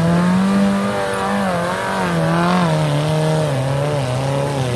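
Off-road 4x4's engine revving, its pitch rising and falling repeatedly as the throttle is worked.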